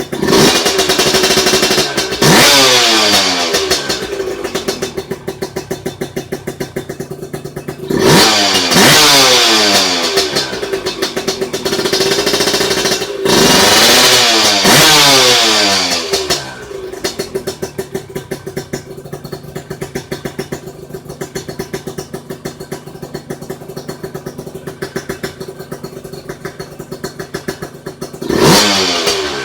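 Motorcycle engine idling with a steady pulsing exhaust beat, revved in several short throttle blips that rise sharply and fall back to idle.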